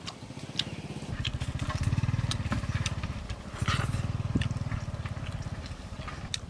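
Open-mouthed chewing and lip smacking while eating roast chicken, with short wet clicks scattered throughout. Underneath runs a low, pulsing engine drone that swells about two seconds in and again near four seconds.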